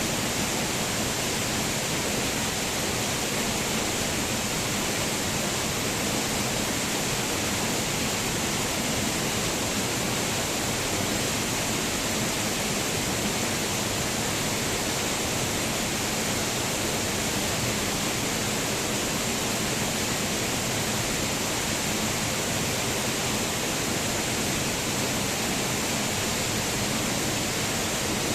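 Waterfall: falling water rushing in a steady, unbroken hiss that is strongest in the upper range.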